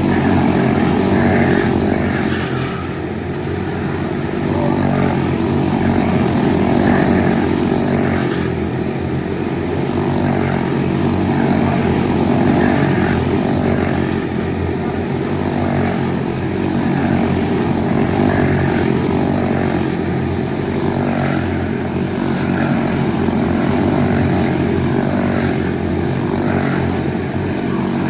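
Quarter midget race cars' small single-cylinder four-stroke engines running hard during a race, the sound swelling and easing in a regular cycle every few seconds as the cars lap the short oval.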